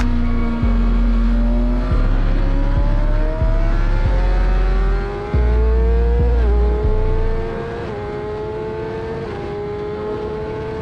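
Suzuki GSX-R sport bike's inline-four engine under full-throttle acceleration: its pitch climbs steadily, then drops sharply at each upshift, several times from about six seconds in. A heavy low rumble of wind on the microphone sits under it and falls away about seven seconds in.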